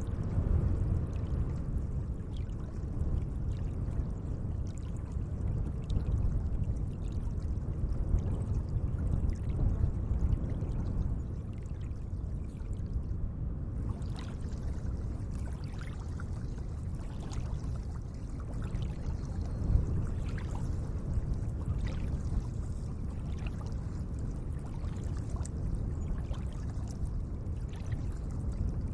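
Gentle lake water: a steady low wash of moving water with small, scattered splashes and lapping.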